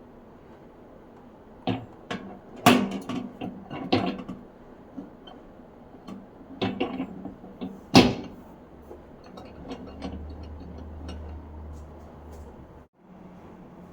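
Microwave oven being handled: a run of clicks and knocks over the first eight seconds, then a low steady hum for about three seconds that cuts off suddenly.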